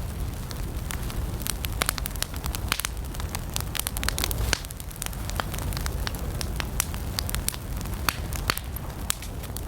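Wood campfire burning: a steady low rush of flames with frequent sharp, irregular crackles and pops.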